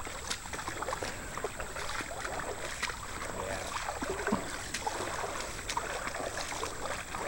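Floodwater sloshing and splashing, with many small splashes and clicks over a steady watery rush.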